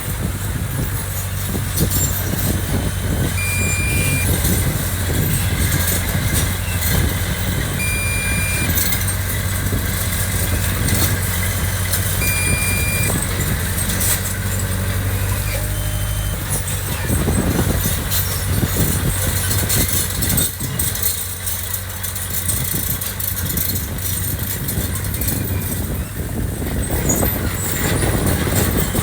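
Diesel engine of heavy earthmoving machinery running, steady for the first half, its note changing about sixteen seconds in. A short high beep sounds about every four seconds during the first half.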